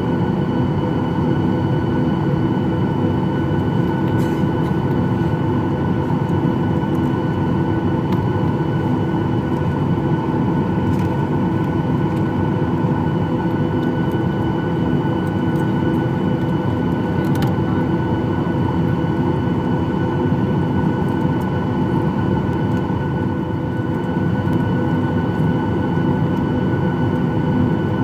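Steady cabin noise of a Boeing 737-800 with its CFM56-7B turbofan engines running, heard from inside the cabin: a dense rushing drone with steady whining engine tones that do not change.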